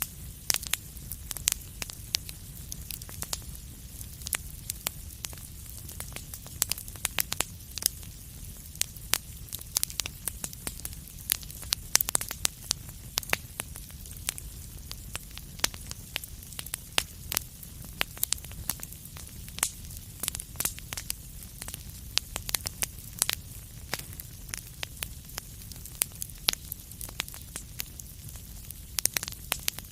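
Wood fire in a fireplace burning steadily, with frequent irregular sharp crackles and pops over a low rumble and a soft hiss.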